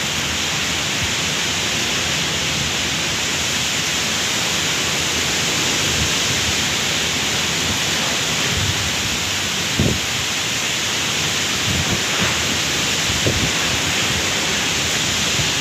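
Heavy rain falling steadily, a continuous loud hiss, with a few brief low thumps through it.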